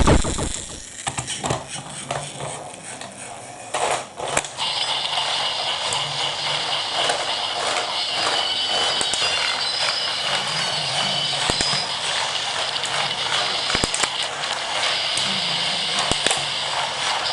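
A battery-powered Plarail toy train running on plastic track. After a few seconds of plastic clicks and clatter, its small motor and gearbox start a steady high whirring about four and a half seconds in, with occasional clicks as it runs along the track.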